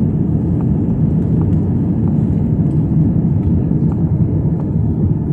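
Jet airliner during takeoff, heard as a loud, steady low rumble with a few faint ticks.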